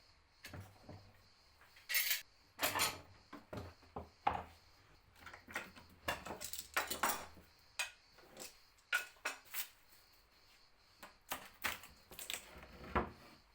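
Irregular clinks and knocks of small hard objects being handled and set down, a dozen or more sharp strikes with no steady rhythm.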